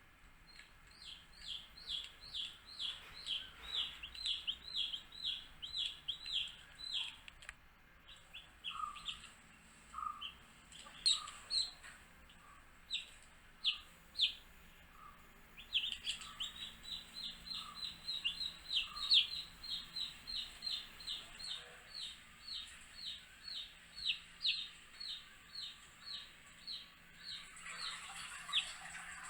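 Baby chicks peeping: long runs of short, high, falling peeps, about three to four a second, thinning out in the middle and then coming thick again. A few lower, short notes come in among them, and a brief hissing noise comes near the end.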